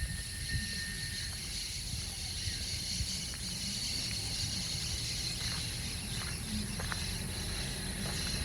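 Steady high-pitched drone of tropical insects, with a low rumble underneath and a brief thin whistle-like note in the first second.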